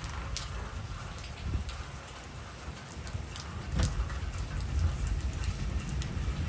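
Heavy rain falling, with scattered drops ticking sharply close by, over a steady low rumble.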